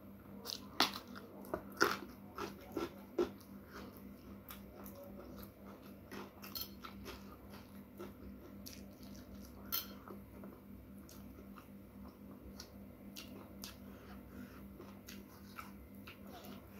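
Close-miked eating: chewing with crisp crunches and wet mouth clicks. A cluster of louder crunches comes in the first three seconds, followed by sparse, fainter clicks.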